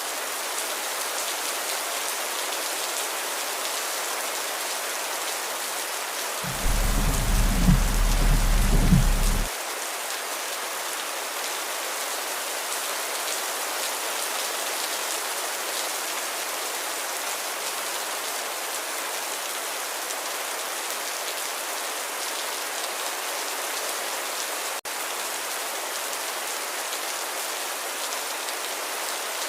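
Steady gentle rain, an even hiss of drops falling. About six seconds in, a loud deep rumble sets in abruptly, lasts about three seconds and cuts off just as suddenly. Near the end the rain drops out for an instant.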